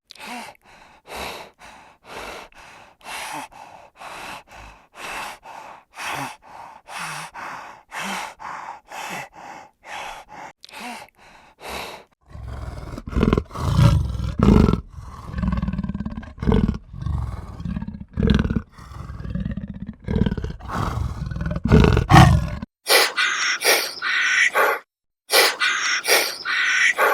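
A run of short, repeated animal calls, about two a second, then louder calls over a deep rumble from about twelve seconds in, and a different, higher-pitched set of calls near the end.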